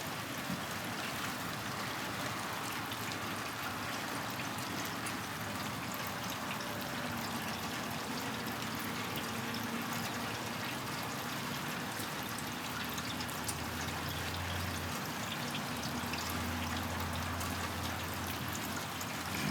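Steady rain falling, with scattered drips and patters. A low steady hum joins about two-thirds of the way through.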